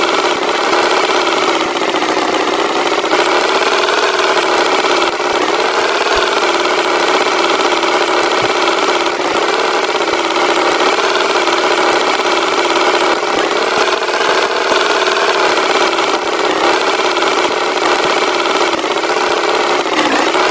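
Tractor engine sound effect running steadily, its pitch wavering slightly.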